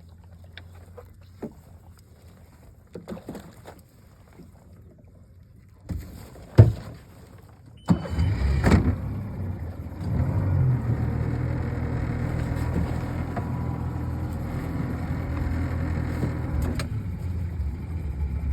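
A few scattered knocks, the loudest a sharp one between six and seven seconds in. The boat's motor then starts abruptly about eight seconds in and runs steadily.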